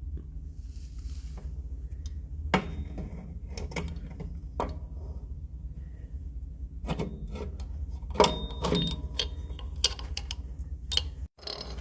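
Metal tools and engine parts clinking and knocking during hands-on engine work over a steady low hum. There is a sharp clink about two and a half seconds in, and a busier run of ringing metal clinks around eight seconds in.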